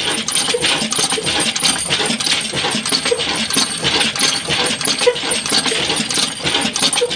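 Old black Ruston Hornsby diesel engine running, a dense, steady metallic clatter.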